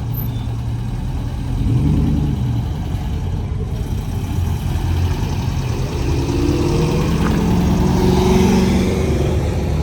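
A car engine running with a deep rumble and revving up, briefly about two seconds in and again for a longer stretch from about six seconds.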